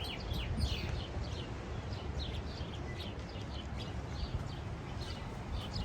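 Small birds chirping, many short downward-sliding chirps, over a steady low rumble of wind on the microphone.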